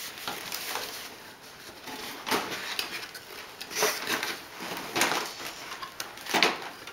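Light clicks and knocks of a plastic toy garbage truck and its trash can being handled, a handful of separate taps spread out with pauses between them.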